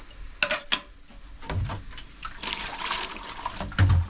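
Water splashing, with a few sharp clicks in the first second and two dull thumps, the louder one near the end.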